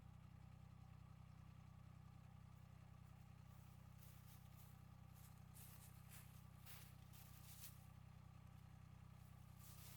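Faint, steady low hum of an idling diesel engine, with a few soft hissing swishes in the second half.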